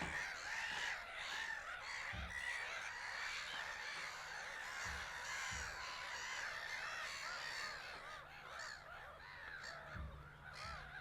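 A crowd of gulls calling, many short harsh calls overlapping into a steady chorus, with a few soft low bumps.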